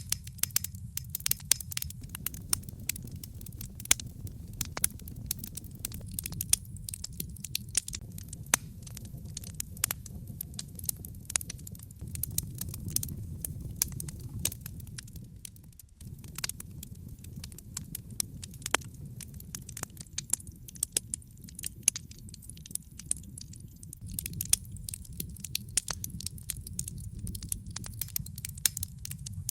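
Wood fire burning in a fireplace: dense, irregular crackles and sharp pops of the burning logs over a steady low rumble of the flames.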